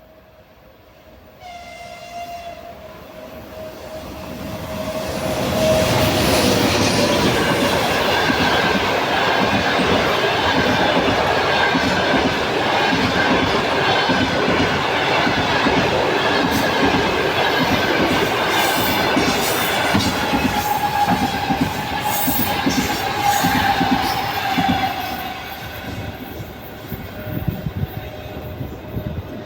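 EP1P electric locomotive and its passenger coaches passing at speed. A short horn blast sounds about two seconds in as the train approaches, then the train goes by loudly with wheels clattering rhythmically over the rail joints. The sound fades near the end.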